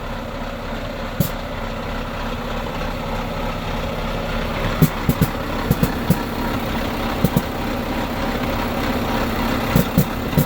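Iveco Stralis truck's diesel engine idling steadily, with irregular sharp clicks over it.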